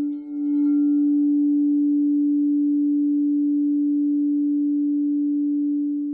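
Crystal singing bowl sounding one steady, low, pure tone with faint overtones. A brief dip and a light tap come just after the start, and the tone fades away near the end.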